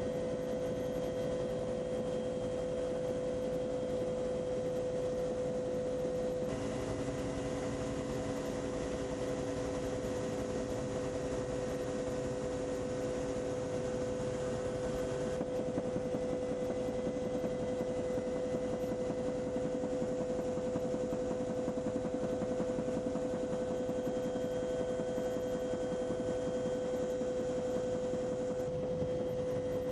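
Helicopter running steadily, heard from on board: a constant engine hum with a steady whine over it, its mix shifting slightly a few times.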